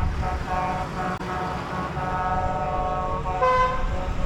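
Vehicle horns tooting over the low rumble of passing tractor and truck engines.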